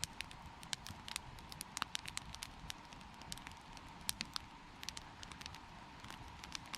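Wood campfire crackling, with irregular sharp pops and snaps of burning wood, several a second, over a low rumble of flame. A faint steady tone runs underneath.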